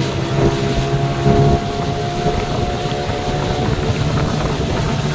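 Hangkai 18 HP two-stroke outboard motor running steadily with the boat under way, with wind noise on the microphone.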